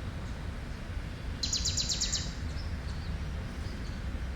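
A small bird gives a quick trill of about eight high chirps, a little over a second in. A steady low background rumble runs under it.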